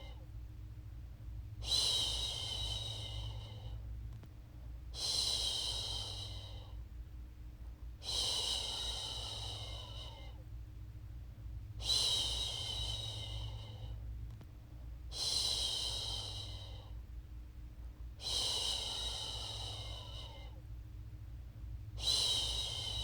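A woman shushing a baby to sleep: long "shhh" sounds, seven in all, each lasting about two seconds and repeated every three to four seconds, over a steady low hum.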